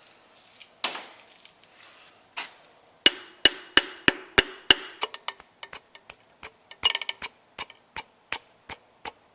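Wooden end of a mallet tapping a piston down into an engine cylinder bore. A few scattered knocks, then a run of about six sharp taps roughly three a second starting about three seconds in, followed by lighter, quicker taps that die away near the end, each with a slight metallic ring.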